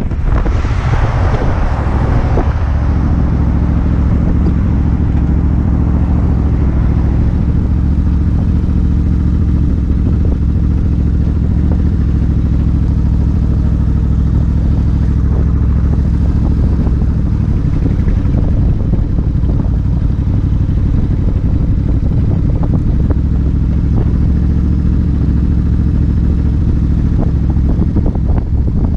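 Suzuki Intruder 1400's V-twin engine running at a steady cruise, a loud, even low drone, with wind rush on the microphone fading out over the first two seconds or so.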